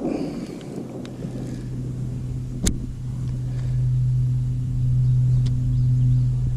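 A steady low motor hum that grows louder over the first few seconds and then holds, with one sharp click about a third of the way through.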